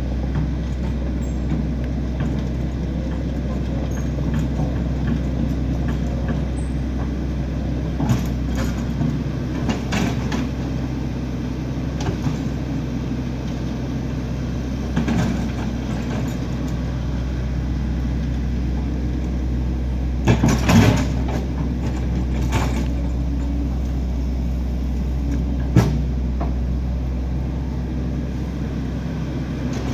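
A large engine running steadily at a low, even pitch, with occasional knocks and clunks, the loudest pair about two-thirds of the way through.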